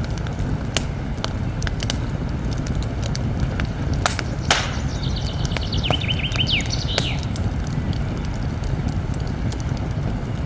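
Campfire crackling with scattered sharp pops over a steady low rush, two stronger pops about four seconds in. A small bird sings a quick trill of repeated notes about halfway through.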